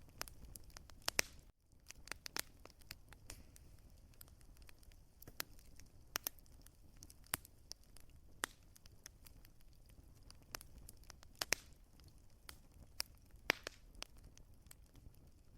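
Wood fire crackling, with sharp irregular pops over a faint low rumble. The sound cuts out for an instant about a second and a half in.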